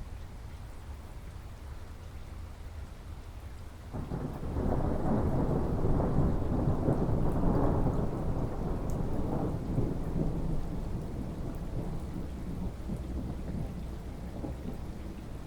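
Rain falling steadily with a low rumble of thunder that starts suddenly about four seconds in, swells for a few seconds and then slowly dies away.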